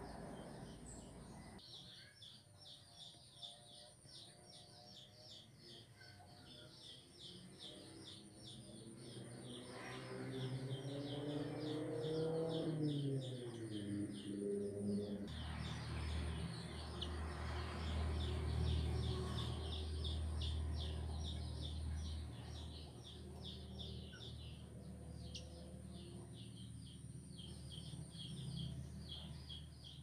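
Bird chirping: a steady run of short, high notes repeated about four times a second. Underneath, a low rumble swells in the middle, rising and falling in pitch, then settles into a deep hum.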